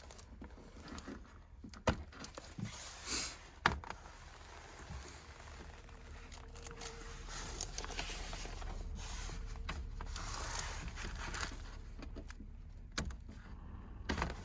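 Scattered clicks, knocks and rustling of things being handled, over a low steady rumble.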